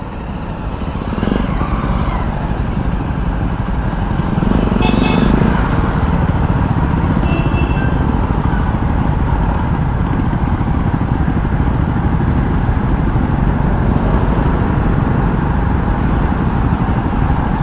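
Jawa motorcycle engine running steadily on the move, with road and wind noise.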